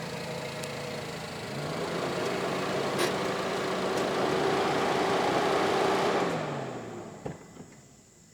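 Suzuki Vitara's engine as the car drives by at low speed. The engine note rises early on, holds steady, then drops and fades away about seven seconds in.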